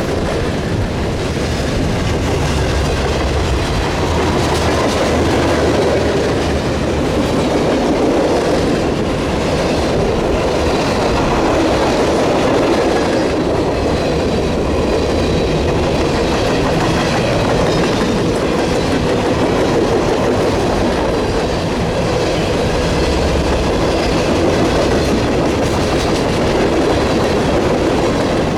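Railcars of a passing train rolling by at steady speed: a continuous loud rumble with rapid clicking of wheels over the rail.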